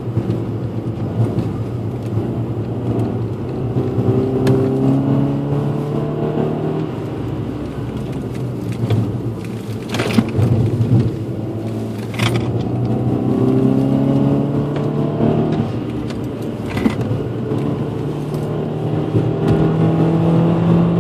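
Car engine heard from inside the cabin during an autocross run, pulling hard with its pitch climbing three times and dropping back between the pulls as the driver lifts and turns. A few sharp knocks come through about ten and twelve seconds in.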